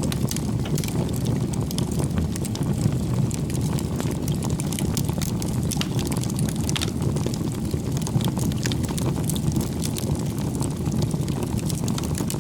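Wood campfire burning with a steady low rumble of flame and frequent small crackles and pops from the firewood.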